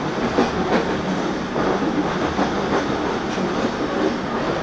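Argo Parahyangan passenger train running on its rails, heard from on board: a steady rumble of wheels and carriages with irregular clicks over the track.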